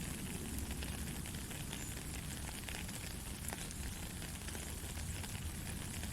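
Steady soft rain: an even hiss of falling drops, with many fine crackling drop ticks and a low rumble beneath.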